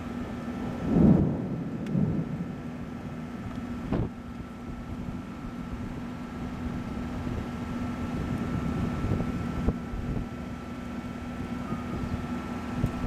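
Wind and storm noise over a steady low hum, with two louder rumbles about one and two seconds in and a few sharp clicks.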